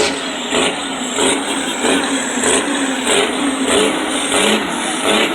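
A truck's engine running steadily, with a regular pulse about one and a half times a second.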